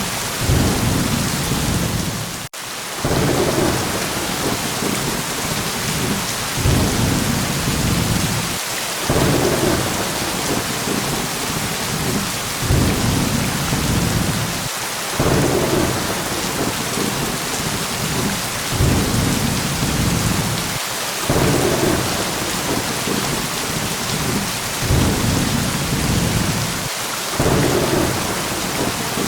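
Thunderstorm: steady heavy rain hissing, with low thunder rumbles that swell and fade about every six seconds. The sound cuts out for an instant about two and a half seconds in.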